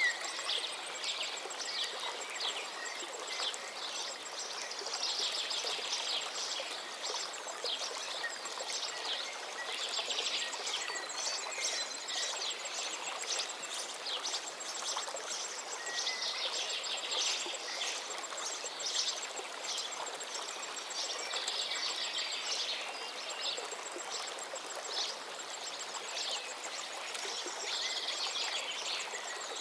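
A chorus of many small birds chirping and twittering without pause, over a steady background hiss.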